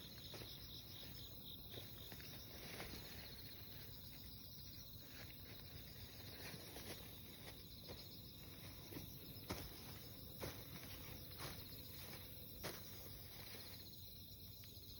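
Insects trilling outdoors: a high, pulsing trill that comes in repeated bouts over a steady low background. Several sharp clicks or taps sound through the middle, the loudest about nine and a half seconds in.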